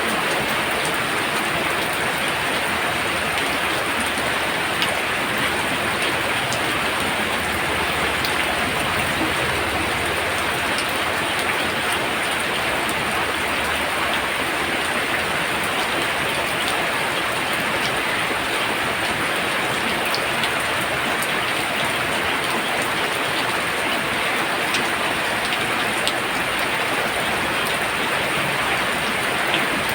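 Heavy rain pouring steadily: a dense, even hiss of falling drops, with scattered sharper drop ticks.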